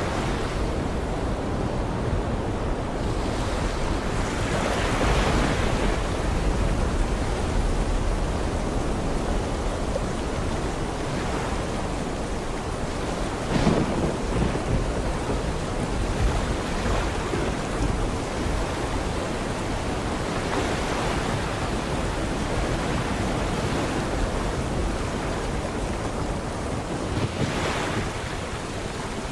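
Sea waves surging and washing in, with swells every several seconds over a continuous low rumble of surf.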